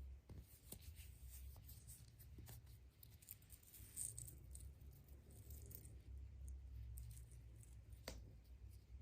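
Faint unboxing of a surprise egg: light crinkling, tearing and small clicks and rattles as the wrapper and toy are handled, with one sharper click about eight seconds in.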